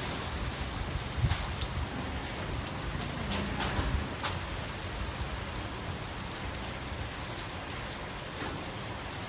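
Steady rain falling on a surface, with a constant hiss and occasional distinct drops or drips standing out, over a low rumble.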